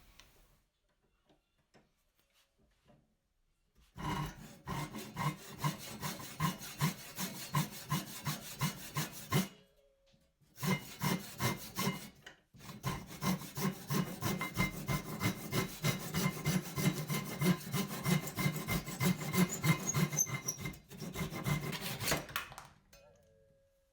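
Quick back-and-forth rubbing strokes of hand abrasive work, like sanding or filing, about four or five a second. They start about four seconds in, break off briefly twice near the middle, and stop shortly before the end.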